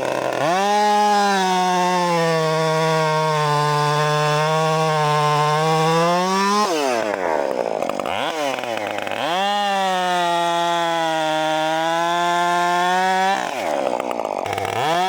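Husqvarna 562 XP two-stroke chainsaw revved up to full throttle and held there for about six seconds, then about four seconds, with its pitch sagging a little while held wide open. Between the runs it drops back toward idle, and it revs up again near the end.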